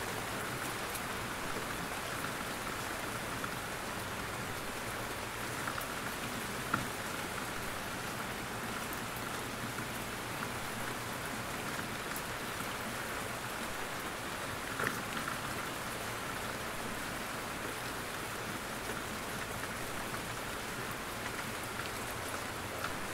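Steady rain with scattered drops falling from trees. Two sharper drop hits stand out, about seven and fifteen seconds in.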